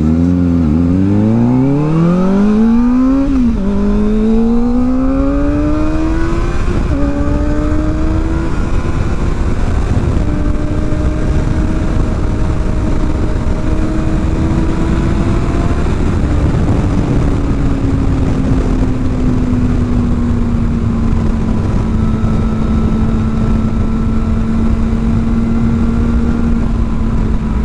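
Kawasaki Ninja ZX-4R's 399 cc inline-four, fitted with an aftermarket exhaust, pulling away and revving up through the gears. Its pitch climbs and drops at three upshifts in the first ten seconds, then settles into a steady cruise that eases slightly lower. A constant rush of wind runs underneath.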